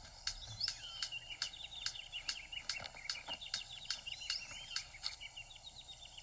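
Birds twittering and trilling in forest, over a steady run of sharp clicks a little over two a second.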